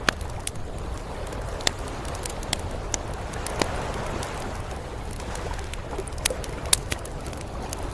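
Campfire crackling, with irregular sharp pops and snaps, over a steady low rumble of sea surf.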